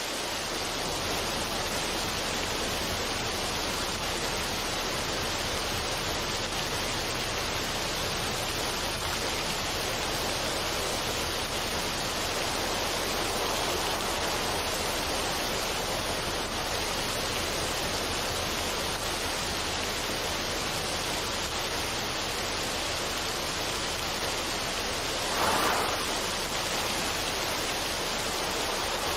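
Steady, even rushing noise like a relaxation ambience track, with a brief louder swell about 25 seconds in.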